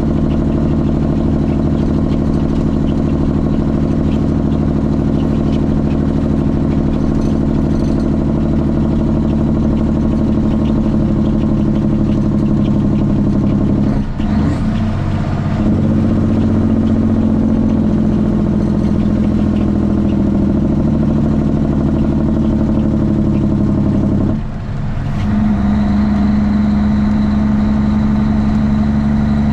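Straight-piped Cummins ISX inline-six diesel in a Kenworth T800 running steadily under way, with two brief dips in the engine sound, about halfway and near the end, before it picks up again.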